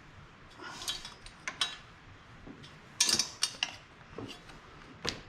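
Irregular metal clinks and knocks from handling the mini bike's exhaust pipe and engine, with the loudest cluster of clatter about three seconds in.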